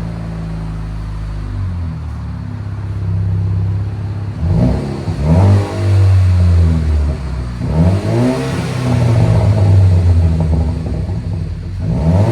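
2013 Cadillac ATS 2.0-litre turbo four-cylinder with a straight-piped dual exhaust (Y-pipe, no mufflers, both catalytic converters kept) idling, then revved in several quick blips about halfway through and held at raised revs toward the end. The note is fairly tame for straight pipes, which the shop puts down to the turbo and the two converters.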